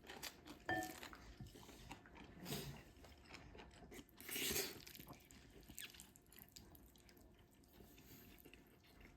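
Faint sounds of eating mapo tofu over rice with a spoon: soft chewing and scattered small clicks, with one ringing clink of a spoon on a bowl about a second in and a brief scraping rasp about halfway through.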